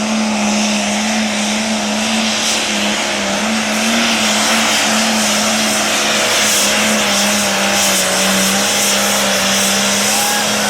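Case Super Farm pulling tractor's turbocharged diesel engine running flat out under load during a pull, one loud steady drone that wavers slightly in pitch.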